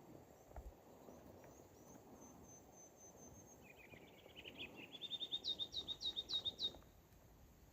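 A songbird singing: a run of short down-slurred chirps that climb step by step in pitch and grow louder, ending abruptly about two-thirds of the way in. Fainter, thin high notes from another bird are repeated earlier.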